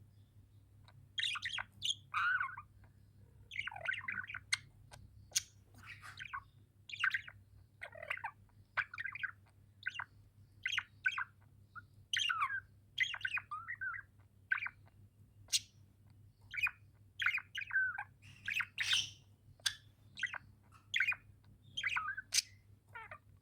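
Budgies (budgerigars) chirping and warbling in short, quick calls, one every half second to a second, starting about a second in.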